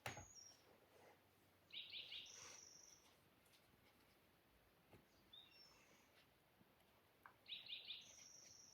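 A bird singing faintly: the same short phrase twice, a quick stutter of notes followed by a high held whistle. A sharp click right at the start.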